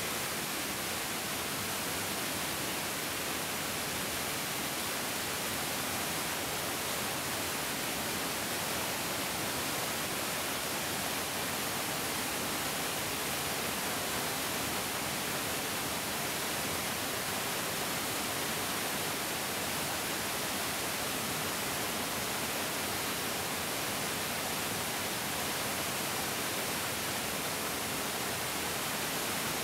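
Mountain stream rushing over rocks: a steady, even hiss of flowing water with no changes.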